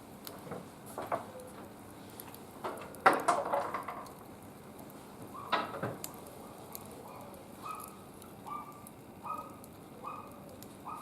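Wood fire crackling and popping in a barbecue grill, with a louder clatter about three seconds in and another near six seconds. In the second half comes a run of short, evenly repeated chirps.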